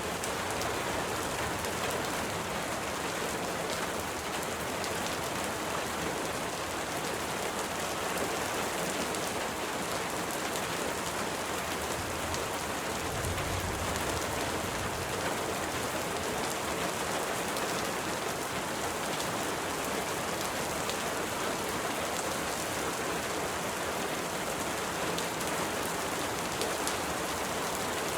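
Steady, even rain falling, with fine drop ticks through it and a brief low rumble about thirteen seconds in.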